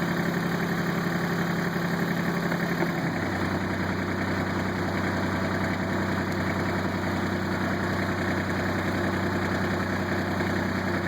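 Kubota tractor's diesel engine running steadily. About three seconds in, the revs drop suddenly to a lower speed, and it runs evenly there.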